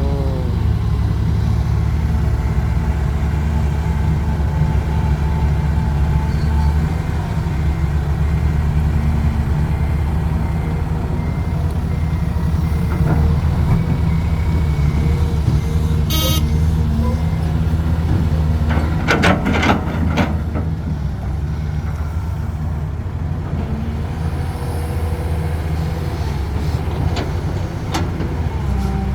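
Dump truck's diesel engine running steadily, with a reversing beeper sounding for a few seconds near the middle and a brief hiss a little later.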